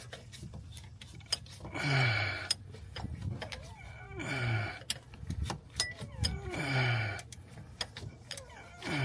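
A man grunting with effort: four low, falling groans about two and a half seconds apart as he strains at a stuck AC compressor, with light metal clicks of tools between them.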